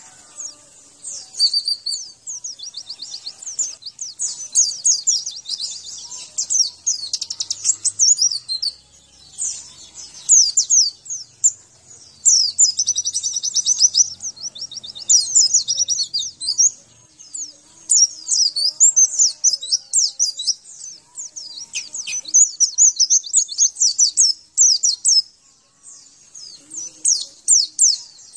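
White-eye (pleci) song from a birdsong training recording: long runs of rapid, high-pitched twittering, broken by short pauses every several seconds.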